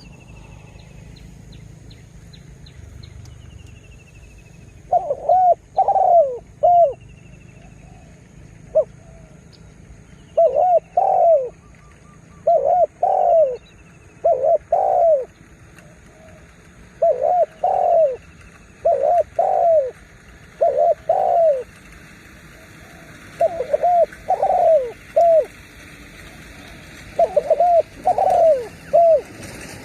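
Spotted dove cooing: repeated phrases of three or four low coos, starting about five seconds in and coming every two to three seconds. Faint thin down-slurred chirps from another small bird sound during the first dozen seconds.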